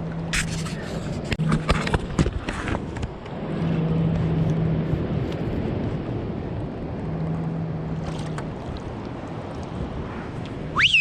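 Steady wind and water noise around a kayak at sea. Several sharp clicks and knocks come in the first few seconds, and a short whistle that rises and then falls comes near the end.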